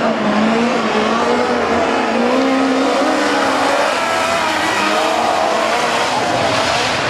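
Several midget race car engines running together, their pitches wavering up and down as the drivers blip and ease off the throttle.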